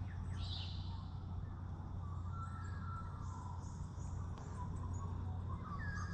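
Creekside ambience: faint scattered bird chirps and insect calls over a steady low hum.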